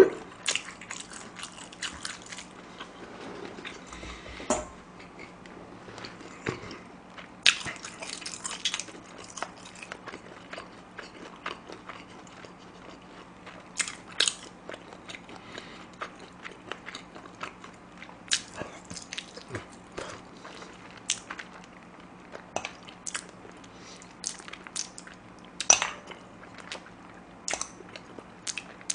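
Close-miked chewing of spicy chicken feet, with irregular small crunches and clicks as the meat is worked off the bones.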